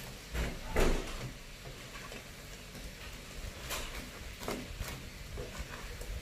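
A cooking utensil knocking against a pan in a few scattered clicks and clatters, the loudest about a second in.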